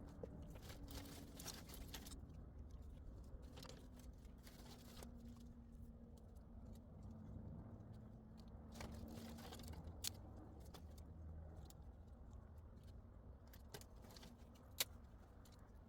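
Near silence: faint scattered rustling and clicks over a low background rumble, with a sharper click about ten seconds in and another near the end.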